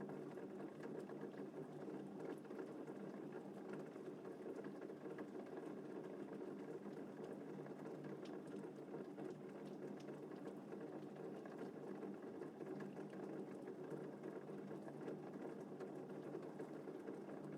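Gentle rain falling steadily, a soft, even patter with a few faint drop ticks and no thunder.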